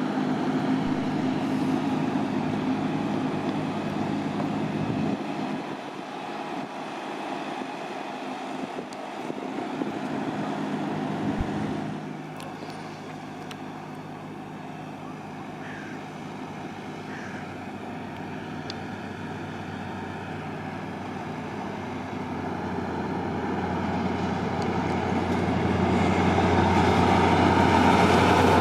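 A steady engine-like hum that fades out about halfway through, then a train approaching, growing steadily louder over the last several seconds.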